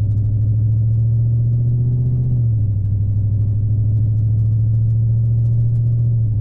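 Dodge Charger Scat Pack's 6.4-litre Hemi V8 droning steadily while the car drives, heard from inside the cabin. Its pitch drops slightly about two and a half seconds in.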